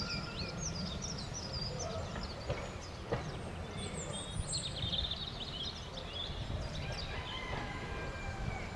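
Songbirds twittering and singing over a steady low rumble, with a faint, drawn-out high whine near the end.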